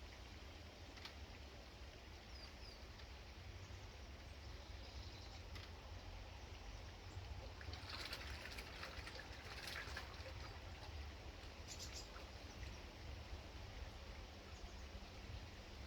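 Faint garden ambience: a steady low rumble with a few faint, short bird chirps. A cluster of clicks and rustling comes about eight to ten seconds in, with another brief one near twelve seconds.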